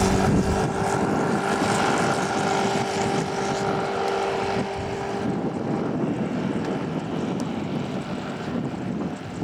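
A vehicle's engine running with a steady low hum over a wash of noise; the hum stops about five seconds in and the rest slowly fades.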